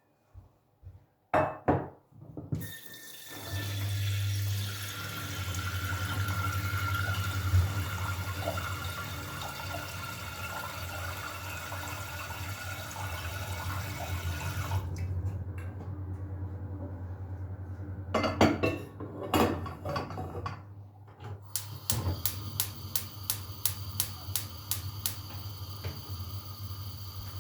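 Kitchen tap running steadily into a sink for about twelve seconds, after a few clicks. After it shuts off come a few knocks, then a run of evenly spaced sharp taps, about three a second, near the end.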